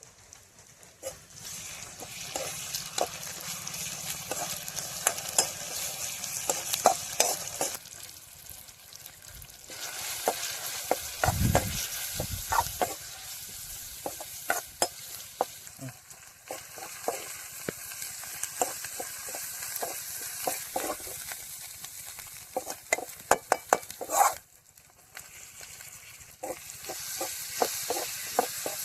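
Food sizzling as it fries in hot oil in a pan, stirred with a spatula that scrapes and clicks against the metal. The sizzle dips briefly a few times, and there is a low thud about eleven seconds in.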